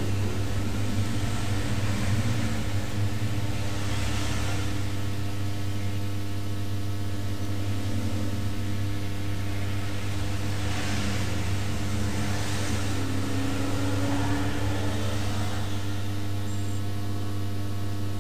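Steady electrical mains hum, a low buzz with higher overtones, with a couple of faint hissing swells.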